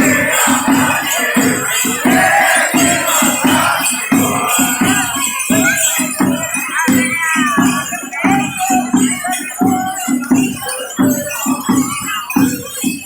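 Congada drums beating a steady rhythm with shakers and rattles jingling over them, and some singing voices in the middle.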